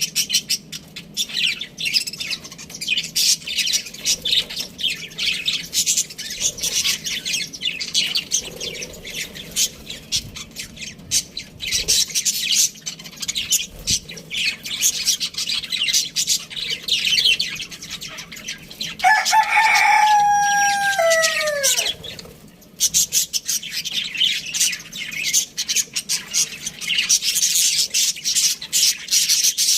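Budgies chattering with constant rapid high chirps, and about two-thirds of the way through a rooster crows once, a held call that falls away at the end.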